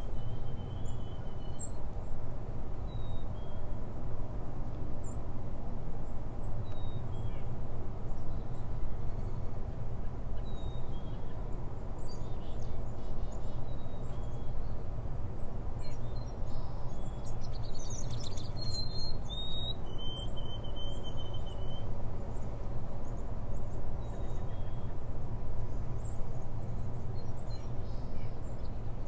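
Birds chirping now and then, with one longer call about twenty seconds in, over a steady low rumble.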